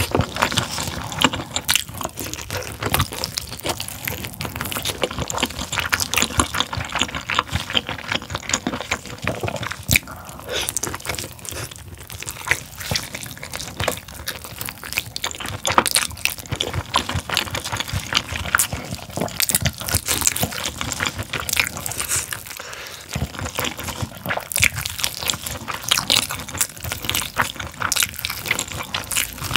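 Close-miked wet chewing and lip-smacking of sticky, gelatinous braised pork tail as the meat is bitten and pulled off the bone, a steady stream of irregular wet clicks and squelches.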